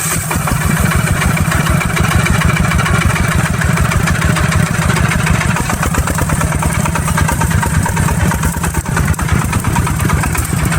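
Engine of a small agricultural truck running steadily, its firing beats fast and even.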